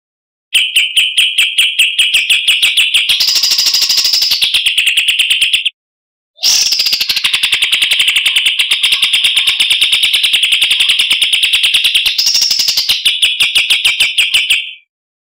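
Recorded songbird singing a very fast, buzzy rapid-fire trill of repeated high notes, in long bouts broken by two short silences, as used to tutor competition birds.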